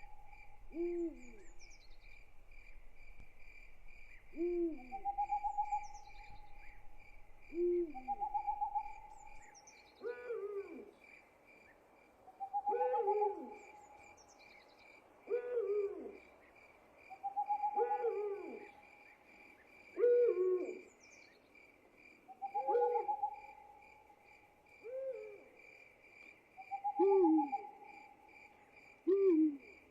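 Hooting calls, as of owls, repeat every couple of seconds and often overlap one another, over a steady, fast-pulsing chorus of crickets.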